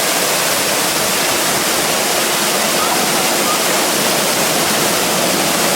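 Stewart Falls, a mountain waterfall, pouring down in a loud, steady rush of water.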